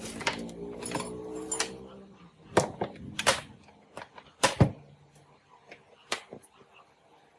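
A pitched hum fades out in the first two seconds, then a series of sharp plastic-and-metal clicks and knocks from the Sanyo MW242K radio-cassette player being handled, the loudest a quick double knock about halfway through.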